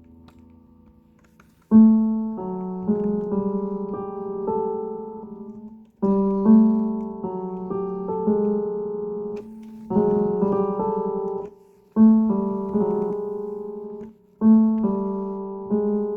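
Piano keyboard playing a short, repeating melodic phrase meant to sound scary. It comes in a little under two seconds in and starts over every two to four seconds, each time with a sharply struck opening note or chord.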